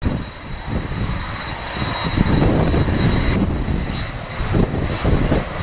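Boeing 767-300 jet engines running as the airliner taxis, with a steady high whine over the engine noise. Strong wind buffets the microphone with gusty low rumbling throughout.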